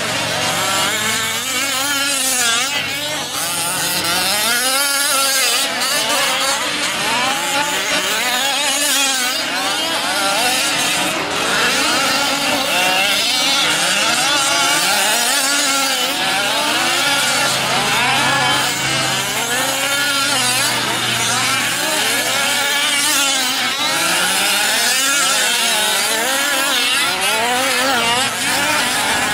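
Several 1/5-scale RC off-road trucks racing together, their small two-stroke engines revving up and down over and over in overlapping, rising and falling tones.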